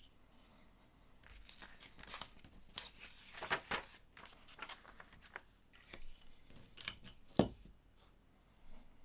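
Plastic LEGO pieces being handled: rustling and light clicks of small plastic parts, with one louder click about seven seconds in.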